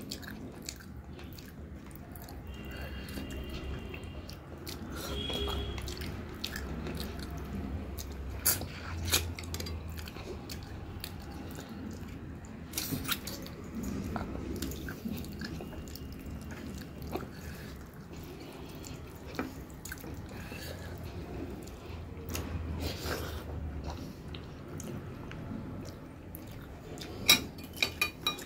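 Close-miked chewing and wet mouth sounds of someone eating rice and chicken curry by hand. Near the end come a few sharp clinks of a steel spoon against a glass bowl.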